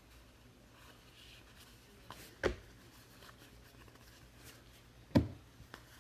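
Trading cards being handled at a table: faint shuffling and clicks, with two sharp taps about two and a half and five seconds in, the second the louder, as a pack or stack of cards is knocked down on the tabletop.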